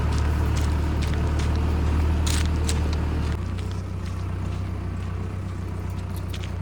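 Mahindra Arjun Novo 605 tractor's diesel engine running steadily; about three seconds in its note drops lower and quieter.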